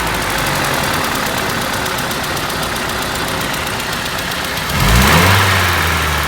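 ZMZ-406 inline-four petrol engine idling with a fast, even ticking knock, its revs rising briefly near the end. The knock comes and goes despite a new timing kit and new hydraulic lifters.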